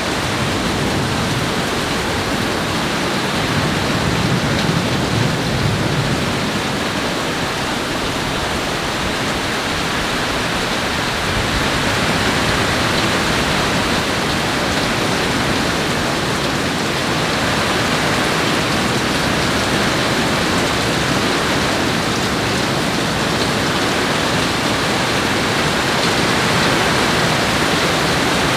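Heavy rain and the rushing water of the creek at the mill combine into a steady, even rush of noise, with no distinct thunderclap.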